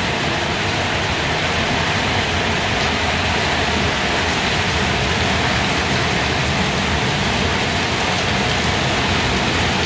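Steady, loud rain falling and splashing on a concrete rooftop terrace.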